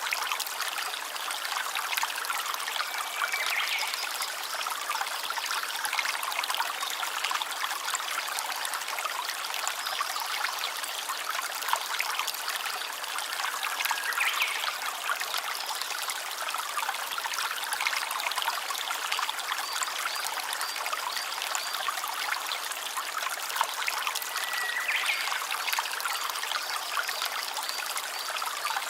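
A small stream trickling steadily, with no breaks.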